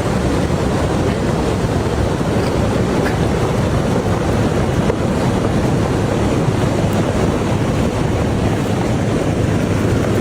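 Loud, steady rush of water, with no distinct events.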